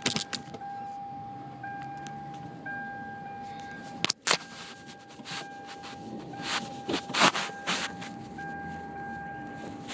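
Car stuck in unplowed snow, its engine running as it works to get free, with a steady high tone throughout and several short knocks and scrapes, the loudest about seven seconds in.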